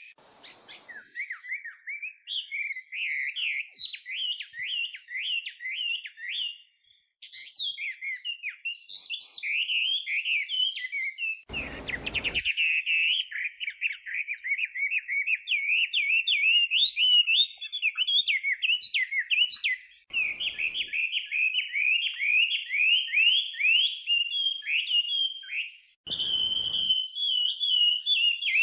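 Chinese hwamei (laughingthrush) singing a long, fast run of slurred whistled phrases, with a short pause partway through. A brief loud noise cuts across the song about twelve seconds in.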